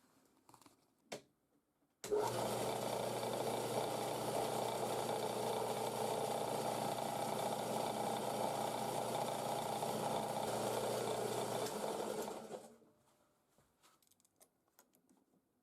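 Homemade 10-inch band saw switched on, starting abruptly about two seconds in and running steadily with an even hum. Near the end it is switched off and spins down over about a second.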